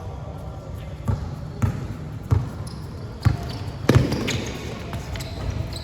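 Basketball bouncing on a court floor: a handful of irregular thuds, the loudest about four seconds in, over background voices.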